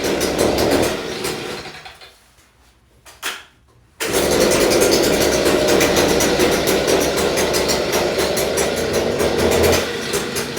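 Stihl BG 86 leaf blower's two-stroke engine on a cold start: it runs, then dies away about two seconds in. After a short sound near three seconds, it catches abruptly about four seconds in and runs steadily, then drops to a lower speed near the end.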